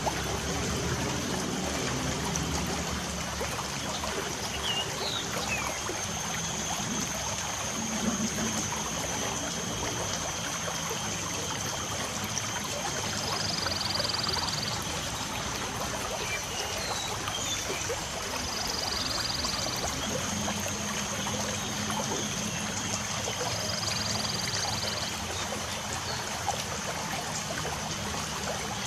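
Light rain falling steadily, with a few brief bird chirps and a short high call repeated three times, several seconds apart, in the second half.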